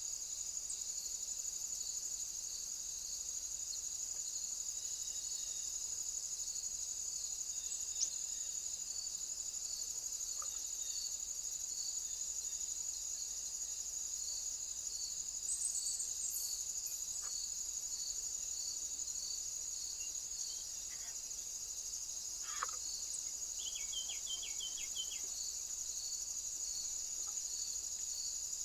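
Crickets chirring steadily at a high pitch, with a regular pulse under the steady trill. A short run of bird chirps comes near the end.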